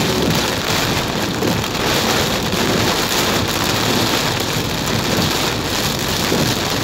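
Heavy rain pouring steadily in a thunderstorm, a dense even hiss of downpour.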